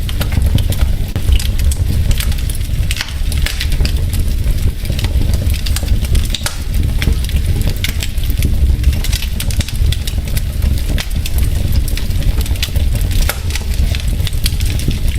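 Wood fire burning in a fireplace: logs crackling with many sharp, irregular pops over a steady low rumble of the flames.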